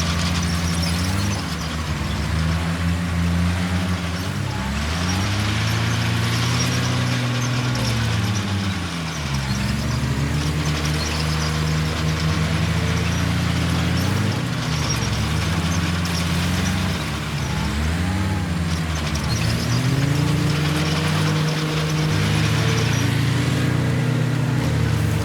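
Heavy diesel engine of earthmoving machinery working under load, its pitch rising and falling every second or two as it revs and eases, over a steady mechanical hiss and clatter.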